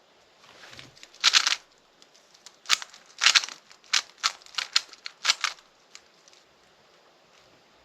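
Rubik's cube being turned by hand: a run of quick, irregular clicks and clacks as the layers snap round, with a burst about a second in and a busy stretch in the middle that stops near the end.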